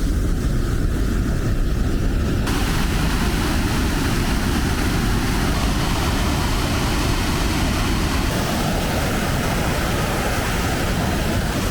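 Waterfall rushing, a loud, steady roar of falling water that turns brighter and hissier about two and a half seconds in.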